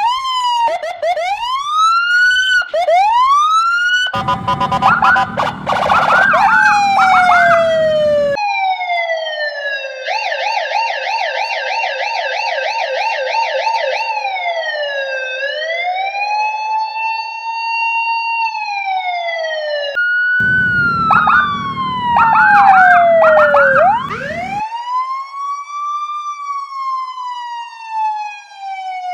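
Police car electronic sirens switching between tones every few seconds: slow rising and falling wails, rapid warbling yelps and long falling sweeps. A low rumble sits under two of the sections.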